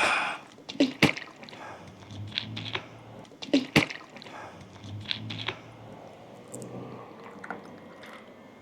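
A person drinking water, gulping and swallowing, with two sharp swallow clicks, one about a second in and one near four seconds.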